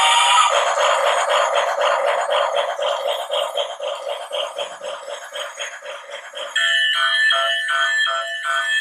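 Toy steam locomotive's built-in sound effects through its small speaker: a fast, even chugging of about five beats a second, switching suddenly about six and a half seconds in to a repeated ringing bell-like tone.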